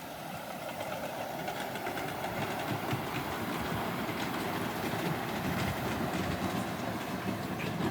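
Train running along the track: a steady rumble with faint, regular clicks of the wheels over the rails, growing a little louder in the first few seconds.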